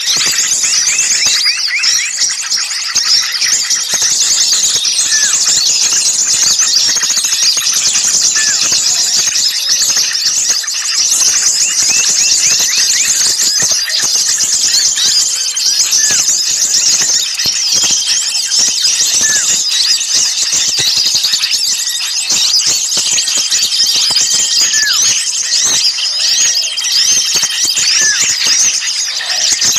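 Dense chorus of many small songbirds giving rapid, high, agitated chirps and chatters that overlap without a break, with short held whistled notes now and then: a noisy small-bird lure call (suara pikat burung kecil ribut), the excited calling used to draw other small birds in.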